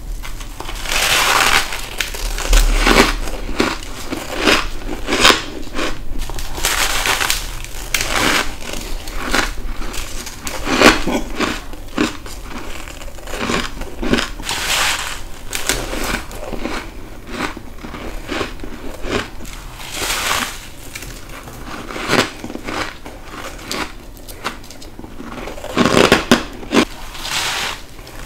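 Close-up biting and crunching into frozen ice, the bites breaking with a dense, crackling crunch. Several louder bites come in clusters, the loudest near the end.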